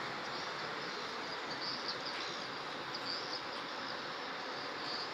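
Heavy rain falling steadily, an even hiss, with faint high chirps sounding now and then over it.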